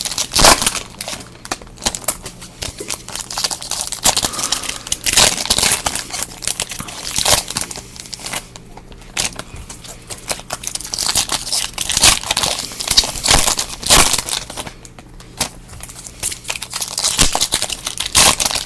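Plastic wrapping being crinkled and torn by hand, with irregular crackles and clicks of handling, as trading-card packaging is opened.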